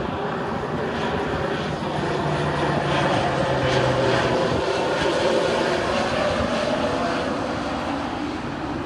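Propeller airplane's engine droning overhead, growing louder to a peak in the middle and then fading as it passes.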